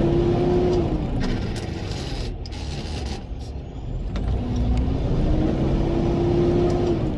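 Semi-truck diesel engine revving under load as the tractor pulls away in a low gear. It rises and holds briefly at the start, then falls away, then rises again about four seconds in and holds until it drops near the end, as with gear changes.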